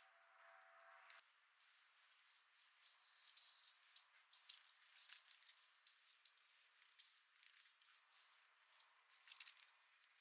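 A flock of bushtits chattering: a busy run of many short, high, thin chips and twitters, overlapping one another, that starts suddenly about a second in.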